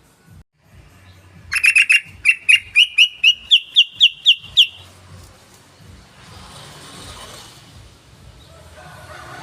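Yellow-vented bulbul (trucukan) calling: a quick burst of chatter, then a run of about a dozen sharp, clipped notes that rise slightly in pitch over about three seconds.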